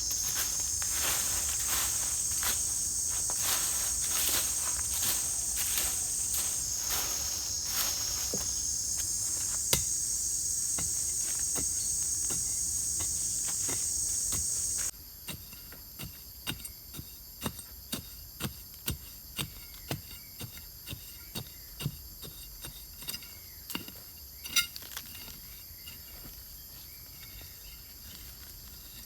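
Steady high-pitched chorus of forest insects such as crickets. Halfway through the level drops suddenly and the insects turn fainter, and a run of sharp knocks follows, about one to two a second, like wood being struck.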